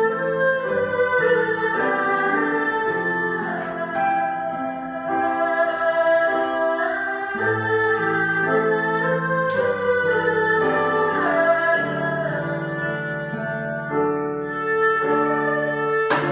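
Violin playing a slow melody over held lower string notes: an instrumental bowed-string arrangement.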